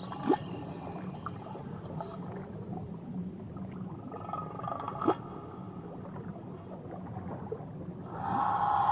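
Whale calls heard underwater over a steady low wash, with two sharp clicks, one just after the start and one about five seconds in. A louder, drawn-out tonal call begins near the end.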